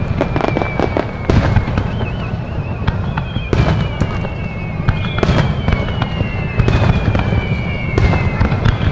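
Fireworks display in full swing: a rapid, continuous stream of bangs and crackling over a low rumble, with several long whistles gliding slowly down in pitch.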